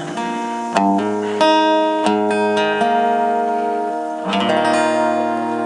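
Acoustic guitar playing the closing chords of a song: about six chords are struck and left to ring, the last one about four seconds in sustaining to the end.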